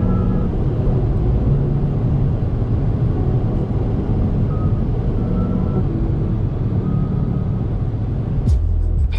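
Chevrolet S10's 2.8 turbo-diesel four-cylinder engine running under way, with steady tyre and road noise, heard from inside the cabin.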